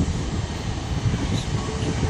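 Diesel train running at a station: a steady low mechanical noise with no distinct events.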